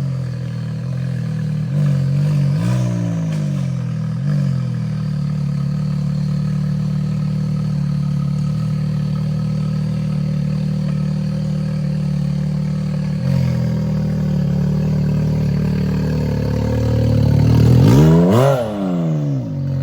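Side-by-side UTV engine running steadily, with brief rises in pitch early on and one strong rev that climbs and falls back near the end.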